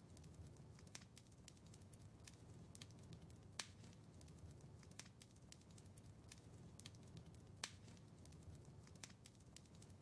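Wood fire in a fireplace, crackling faintly: frequent small sharp crackles over a low rumble, with two louder pops about three and a half and seven and a half seconds in.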